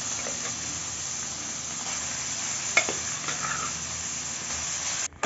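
Mashed boiled carrots sizzling steadily in hot desi ghee in a steel kadhai, with one short click about halfway through. The sizzling stops abruptly near the end.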